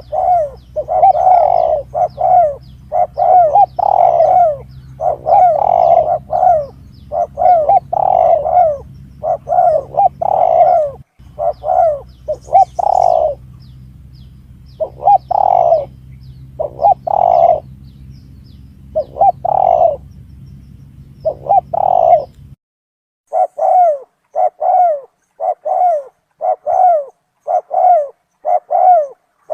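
Spotted dove (tekukur) cooing, one repeated phrase of two or three notes after another, played as a hunting lure call. A low steady hum lies under the cooing and stops abruptly about two-thirds of the way through, while the cooing carries on.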